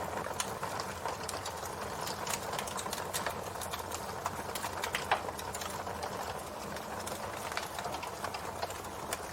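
Campfire burning: wood crackling in irregular sharp snaps over a steady rush of flame, with one louder pop about five seconds in.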